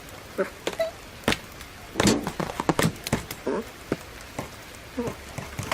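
A series of short, irregular clicks and knocks, a few with a brief pitched ring, with a denser cluster about two seconds in: cartoon sound effects.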